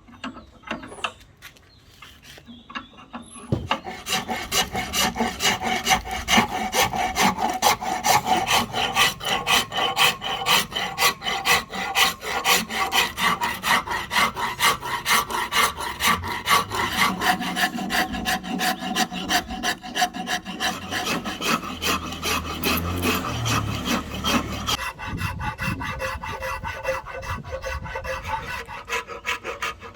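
Wood rasp scraping a wooden axe handle in rapid, even strokes. It starts about three and a half seconds in, after a few light knocks.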